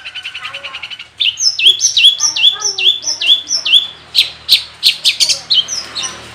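Long-tailed shrike singing a varied song of mimicked phrases: a fast trill fades about a second in, then a run of repeated slurred whistles follows. From about four seconds in come sharp chip notes, about three a second.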